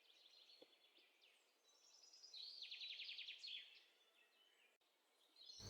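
Faint birds chirping in the background, with one quick trill a little over two seconds in.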